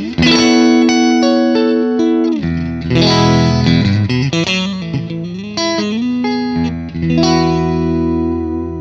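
FGN Expert Odyssey EOS-FM-R electric guitar played as an unaccompanied demo: chords struck four times and left to ring, with a short run of single notes between them.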